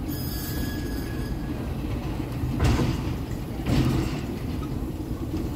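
Goods wagons of a pick-up freight train rolling slowly past, with a steady low rumble and two clunks about a second apart midway through.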